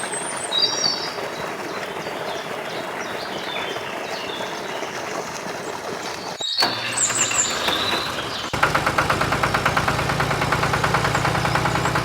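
Birds chirping over a steady hiss. About two-thirds of the way in, a small motor starts running with a fast, even pulse.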